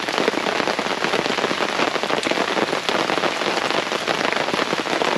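Heavy rain drumming on a fabric pop-up canopy overhead: a loud, dense, steady patter of countless drops.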